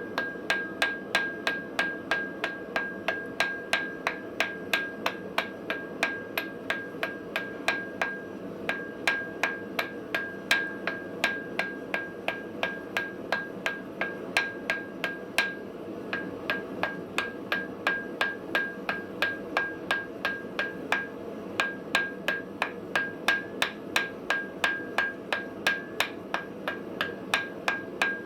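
Hammer blows on an anvil while forging, struck at a steady pace of about two to three a second, each blow giving a bright ring. The rhythm breaks off briefly a few times.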